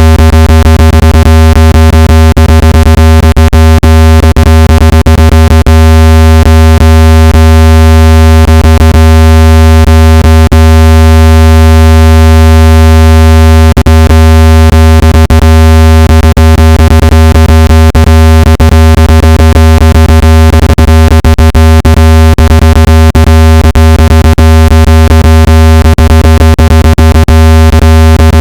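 Very loud, steady, low-pitched electronic buzz tone with a stack of overtones: a speaker water-ejection tone, made to vibrate a phone or earbud speaker so water is pushed out of it. It crackles with frequent short clicks throughout.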